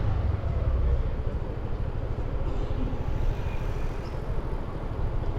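A 300 cc motorbike being ridden, with the steady low rumble of the engine and road noise picked up by a GoPro on the bike.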